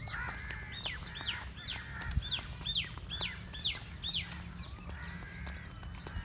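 A bird calling: a quick series of about ten short, high notes, each falling in pitch, over the first four seconds, with a single low thump about two seconds in.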